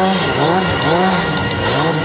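Stunt motorcycle engine revving up and down about twice a second as the rider works the throttle to hold the bike in a circle wheelie.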